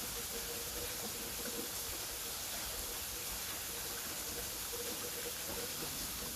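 Waterfall: a steady rushing hiss of falling water, even and unbroken.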